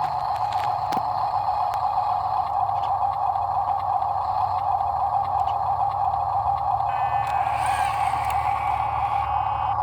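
Heavy diesel machinery, a dump truck or excavator, running steadily, with a couple of knocks about a second in and a higher-pitched sound joining about seven seconds in.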